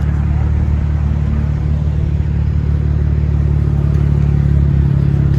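A car engine running steadily, an even low rumble that holds the same pitch with no revving.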